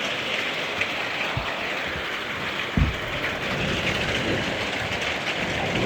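Heavy rain falling steadily, a constant hiss. There is a short, dull low thump about three seconds in.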